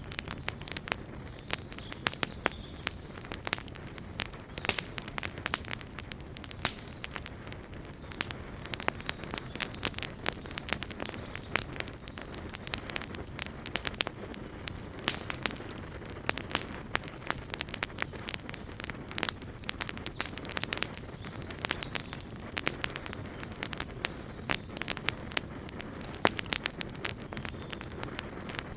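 Wood campfire burning, with many irregular sharp pops and crackles over a steady low hiss of the flames.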